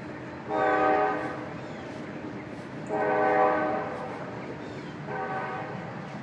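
Freight train horn sounding three blasts, two long and a shorter third.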